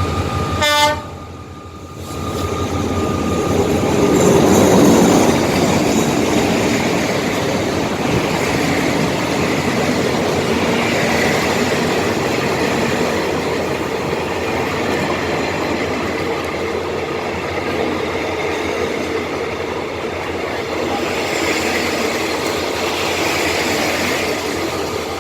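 Railway train passing: a short horn blast about a second in, then the rumble and rattle of the train running by, loudest around four to five seconds in and continuing steadily.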